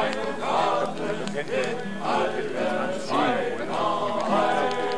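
A group of voices singing a song together, several voices holding and changing notes at once.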